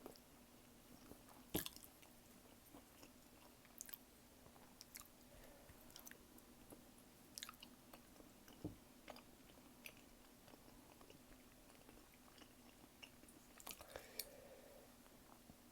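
Close-miked chewing of tteokbokki and gimbap: soft, wet mouth clicks and bites scattered irregularly, the clearest about a second and a half in and two more near the end.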